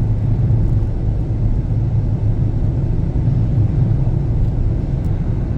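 Car driving along a road, its engine and tyre noise a steady low rumble heard from inside the cabin.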